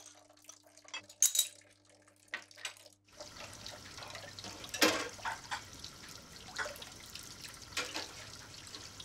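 A few light clicks, then about three seconds in a tap starts and water runs steadily into a sink, with occasional clinks.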